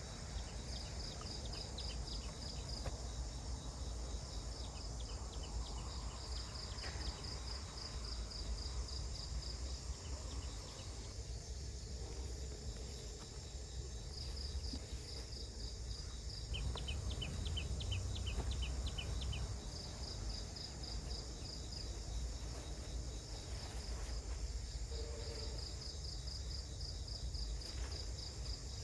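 Forest insects chirping in repeated short trains of rapid, even pulses, high-pitched, over a steady high insect hiss. A low rumble runs underneath.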